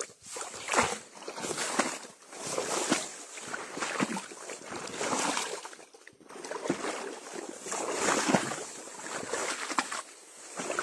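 Shallow water sloshing and splashing in irregular surges, with a few sharp knocks.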